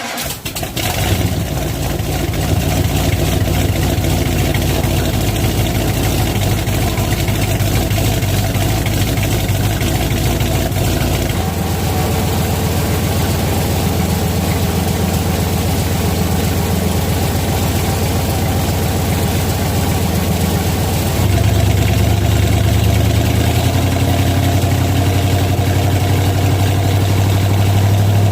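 The '67's engine running with the drivetrain turning at about 50 mph on jack stands, and the wrecked 12-bolt rear end's ring and pinion gears sounding rough, like a freight train. Its whine comes from junk gears with a poor contact pattern and a pinion bearing that had come loose and worn. The steady drone shifts in tone about a third of the way in and grows louder about two-thirds of the way in.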